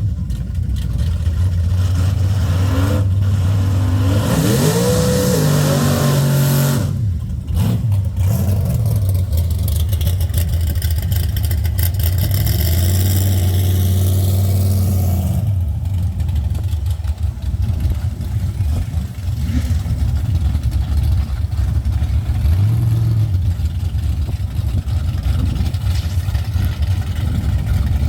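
Race truck engine revving up in several rising sweeps, then held at high revs for several seconds. About halfway through the engine note drops and it runs on at lower revs with a rough rumble.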